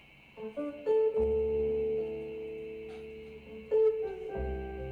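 Jazz recording played back over a home stereo's loudspeakers and picked up in the room. It starts about half a second in with plucked notes that ring and fade over deep bass notes. A steady faint hiss runs underneath.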